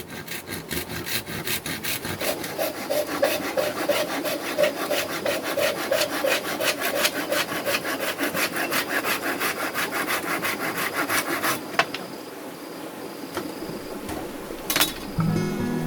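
Wood being sawn by hand in rapid, even strokes, about four a second, stopping about twelve seconds in. A single click follows near the end, then music begins.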